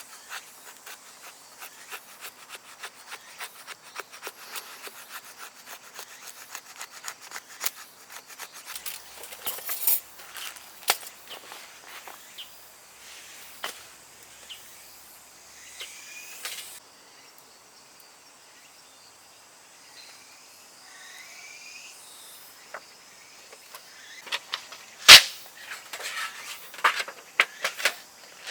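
Rapid dry scratching clicks for the first twelve seconds or so, then a quieter stretch with a few faint chirps, then one sharp loud knock about 25 seconds in, followed by scattered clicks.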